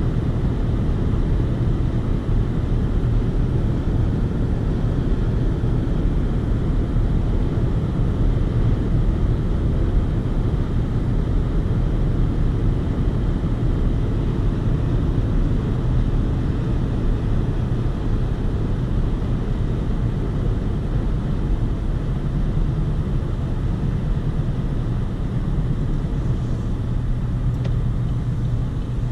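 Steady low engine and road rumble of a 2020 Chevy Colorado Work Truck pickup under way, heard from inside the cab.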